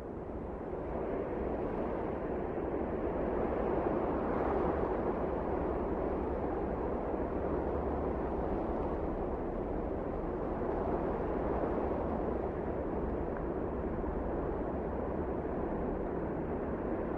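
Wind blowing as a steady rushing noise, swelling over the first few seconds and then holding even.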